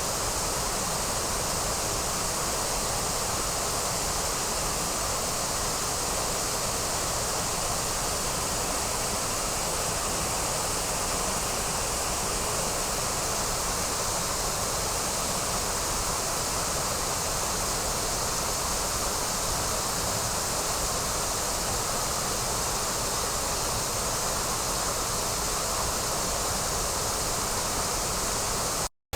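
Waterfall pouring, a steady unbroken rush of falling water. It breaks off for an instant near the end.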